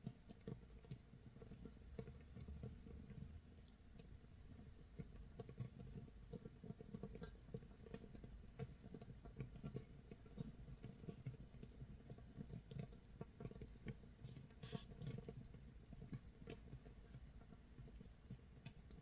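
Makgeolli starter mash (mitsul) fermenting in a crock, 24 hours in: a faint, dense, irregular crackle of countless tiny bubbles popping, like light rain or toasting nurungji, with scattered sharper clicks.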